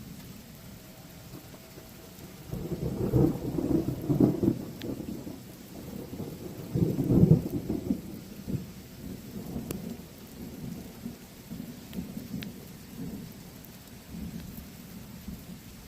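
Thunder rumbling from an approaching storm. It swells a few seconds in, is loudest twice, at about three to four and about seven seconds in, then keeps rolling more quietly.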